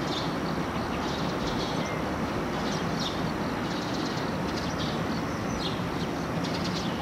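A JR West limited-express electric train approaching from a distance, a steady rumble of wheels on rail. Short high chirps sound every second or so.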